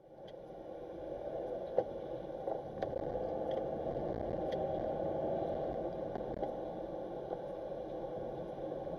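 Steady driving noise of a car heard through a dashcam, mostly road and engine hum, with a few faint clicks.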